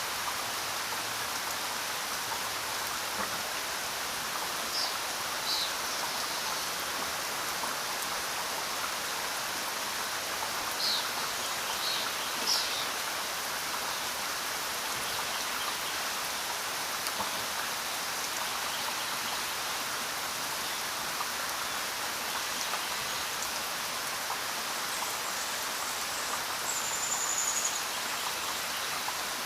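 Steady rainfall, an even hiss of drops, with a few brief high chirps now and then.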